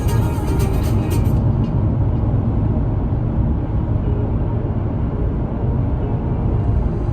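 Background music fades out about a second in, leaving the steady road and tyre noise of a car driving on wet roads in the rain, heard from inside the cabin.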